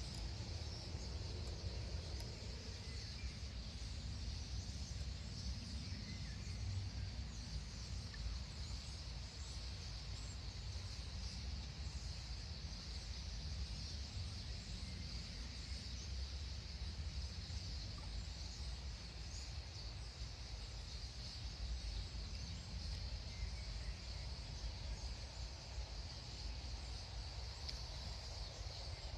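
A large flock of common starlings chattering en masse, a dense, steady high twittering with no break, over a low steady rumble.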